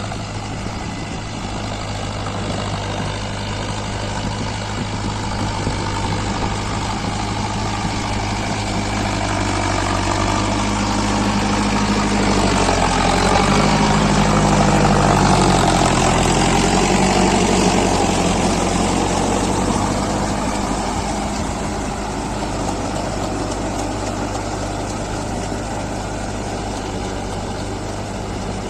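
Tractor diesel engine running steadily. About halfway through it revs up and grows louder for several seconds, then eases back to a steady run.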